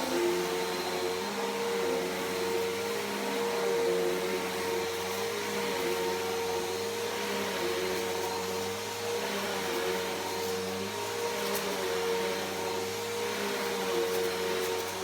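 Bissell PowerForce Helix Turbo upright vacuum running steadily while vacuuming carpet, with a constant motor whine over the rush of suction air. A few light ticks come in the second half.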